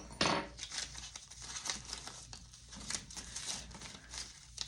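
Paper banknotes rustling and crinkling as cash is handled and sorted by hand, with a louder rustle just after the start and softer rustles and light taps after that.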